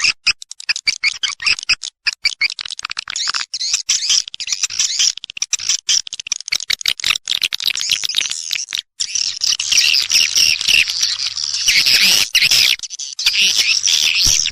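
Edible-nest swiftlets' calls, as used in a swiftlet-house lure track: a dense run of rapid clicks, then continuous high twittering chatter for the second half.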